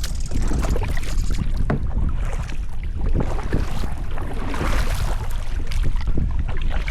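Wind buffeting the microphone with a steady low rumble, over water splashing and lapping around a sit-on-top kayak, with scattered small knocks and a louder splash about five seconds in.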